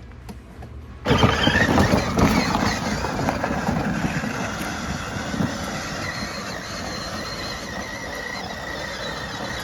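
Power Wheels Grave Digger ride-on truck, running on a DeWalt 20V drill battery through an adapter, starts off about a second in: its electric drive motors and plastic gearboxes whine steadily as it drives across the yard, loudest as it pulls away.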